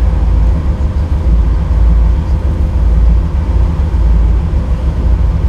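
Nissan GQ Patrol 4x4 running, heard from on board: a loud, steady low rumble with a faint steady whine above it.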